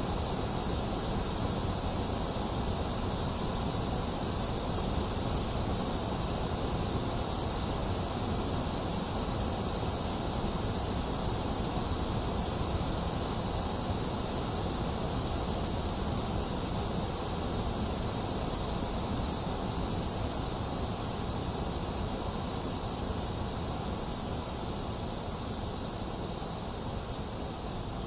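Box fan running steadily, its low airflow blended with the even hiss of rain, with no thunder; the sound eases down slightly near the end.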